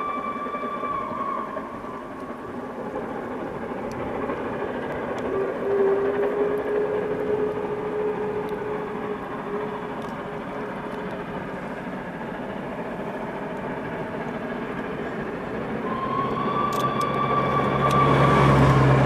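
Train running, a steady rushing noise with long held high tones in the first second or so and again over the last few seconds, and a lower steady tone for a few seconds near the middle. The noise grows louder near the end.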